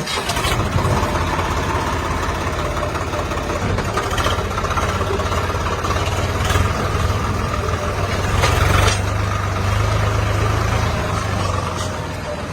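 A heavy diesel engine running steadily, with a deep hum, starting abruptly at the outset; a few sharp knocks come through in the middle.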